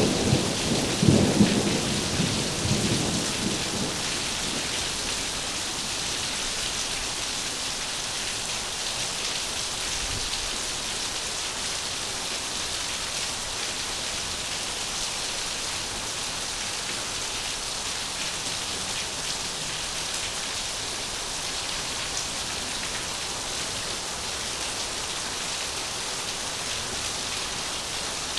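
Heavy rain pouring steadily, with a rumble of thunder in the first few seconds that dies away.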